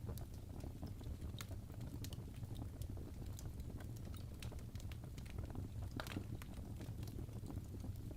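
Crackling fireplace: irregular sharp pops and snaps of burning wood over a steady low rumble of the fire.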